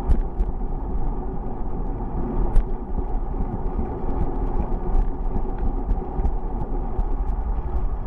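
Steady low rumble of wind on the microphone and road noise while riding a bicycle, with scattered small clicks and rattles.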